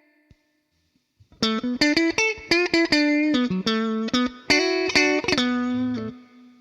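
Siam Custom electric guitar played through a DemonFX Jan Ray overdrive pedal: after about a second of silence, a quick phrase of picked single notes, ending on a held note that rings out and slowly fades.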